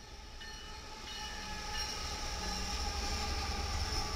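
Diesel locomotives of a BNSF freight train approaching, their low rumble growing steadily louder as the lead unit draws close.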